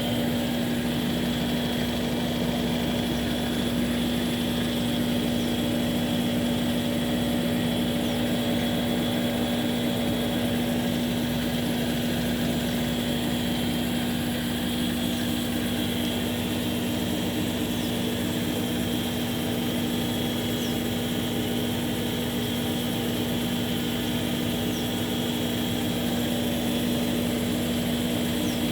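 Consul 11 kg washing machine on its spin cycle, its motor and drum running at a steady speed with an even hum and a fainter high whine.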